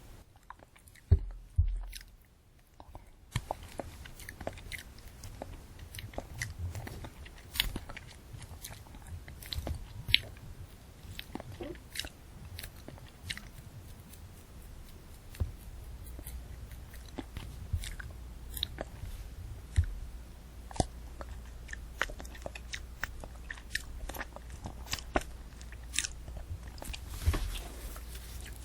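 Close-miked chewing of a candy apple: the hard candy shell cracks and crunches along with crisp apple flesh, in many sharp crackles. The loudest bite comes about a second in.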